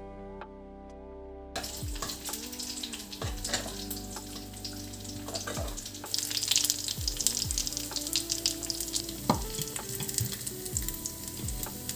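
Food sizzling in a hot frying pan, starting abruptly about a second and a half in and growing louder around the middle.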